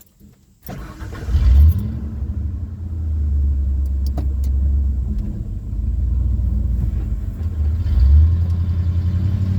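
Ford F-150 engine starting up about a second in after it had died, with a quick rev, then running with a low, uneven rumble that swells again near the end. The owner takes the stall as a sign that something is wrong with it when it runs.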